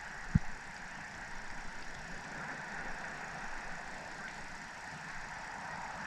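Faint, steady outdoor background noise, with a single short knock about half a second in.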